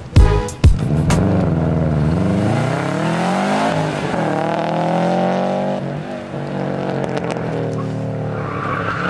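Subaru Impreza WRX STI's turbocharged flat-four engine accelerating hard. Its pitch climbs, drops at a gear change, climbs again and then falls back as it lifts off. The tyres squeal briefly near the end.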